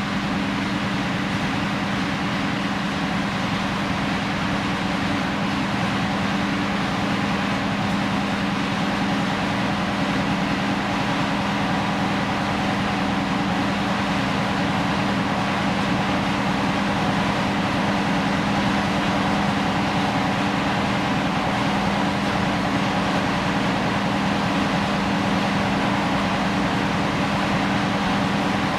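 A ship's engine running steadily: a constant hum with a strong low tone and fainter higher tones over a mechanical hiss.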